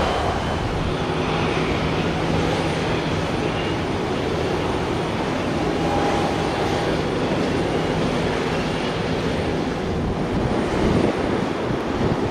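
Jet aircraft engines running with a steady rushing noise, a faint hum beneath it.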